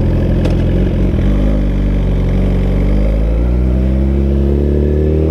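Suzuki GSX-R1000R inline-four running through a Brocks full exhaust system while riding. The engine note holds fairly steady at first, then rises steadily over the last couple of seconds as the bike accelerates.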